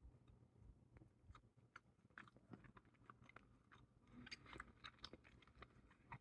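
Faint chewing of a soft whole-grain strawberry fig bar: small, irregular mouth clicks, a little louder about four seconds in.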